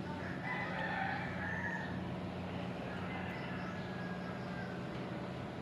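A steady low hum with a faint bird call over it, the longest starting about half a second in and lasting over a second, and a fainter one about three seconds in.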